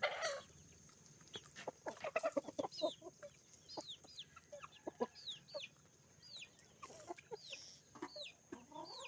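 Desi country chickens clucking in short bursts, with a steady string of high, falling peeps about every half second from around the middle on.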